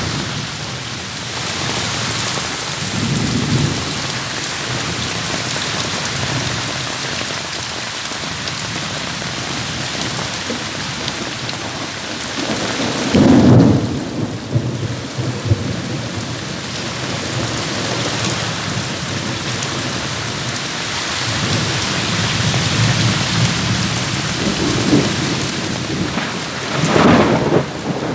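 Heavy rain falling steadily in a thunderstorm, with thunder rumbling through it and two louder claps, one about halfway through and one near the end.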